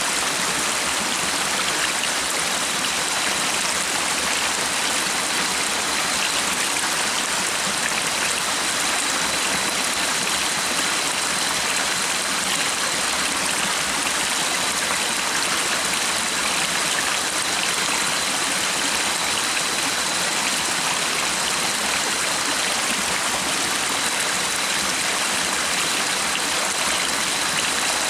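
Stream water running steadily, a continuous rushing and trickling with no break, with a faint steady high tone above it.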